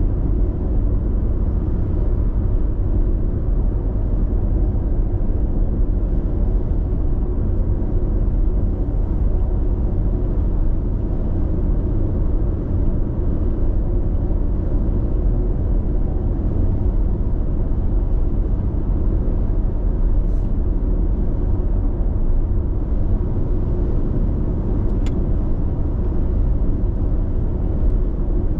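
Steady road noise inside a car cruising at constant speed on an expressway: a continuous low tyre and engine rumble from the cabin, without changes.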